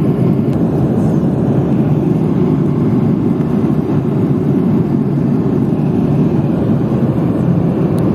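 Steady, even cabin noise of an airliner in flight, heard from inside the cabin: engine and airflow noise, strongest in the low range.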